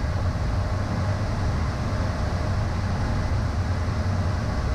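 Steady cockpit noise of a Beechcraft Premier I business jet in a descent: the even rush of airflow and the drone of its twin turbofan engines, strongest in the low end.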